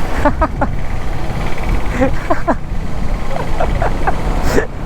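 Riding sound of a Yamaha R15 V3 motorcycle: wind rushing over the helmet microphone with the engine running underneath, broken by a few brief vocal sounds.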